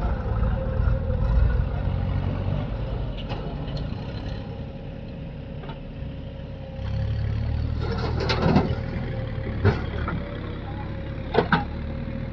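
Heavy diesel engine running steadily, getting louder about seven seconds in, with a few sharp knocks in the second half.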